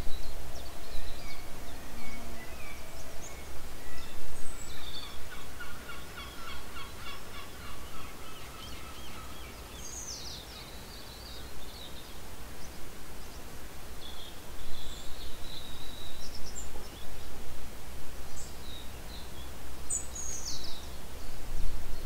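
Wild birds calling over a steady low rumble: a rapid rattling trill from about four to nine seconds in, and short high calls that fall in pitch around ten seconds and again near the end.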